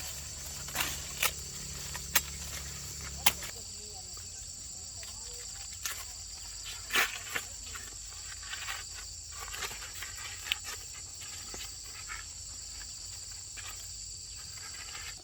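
Steady high-pitched chirring of insects, with scattered sharp knocks and clicks. A low hum stops about three seconds in.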